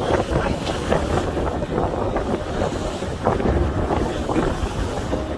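Wind buffeting the microphone on a deep-sea fishing boat under way, over the steady noise of the boat and the wash of the sea.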